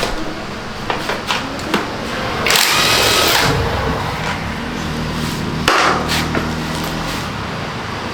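Cordless power driver running in two short bursts, the first about a second long with a whining motor, the second shorter near the end, among sharp clicks of tools and parts.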